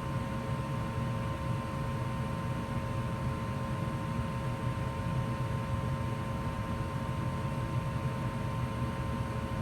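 2004 Goodman gas furnace running steadily in heat mode: an even low rumble with a steady two-note hum over it.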